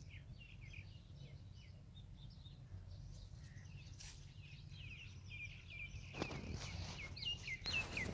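Small birds chirping in quick, repeated short notes, growing busier over the last couple of seconds, over a low steady rumble. A couple of brief scuffing noises come about six seconds in and near the end.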